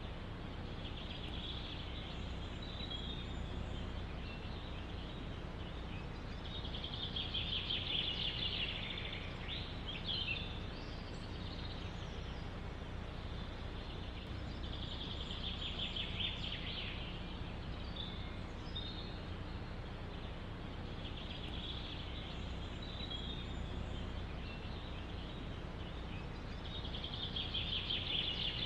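A songbird singing a fast trilled phrase about every six to eight seconds, over a steady low rush of wind in the trees.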